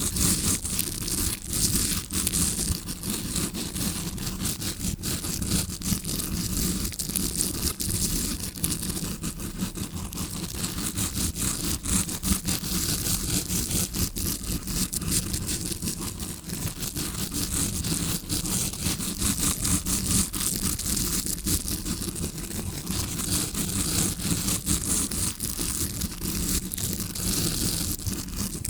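Tawashi scrubbing brush scratched and rubbed right against a recorder's microphone, imitating ear cleaning from the eardrum side: dense, continuous bristly scratching without a break.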